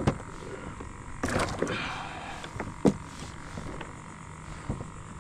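Casting and setting up a fishing rod on a kayak: a sharp click at the start, a short rushing, splashy noise about a second in, and a single knock near three seconds, over faint small clicks of gear on the hull.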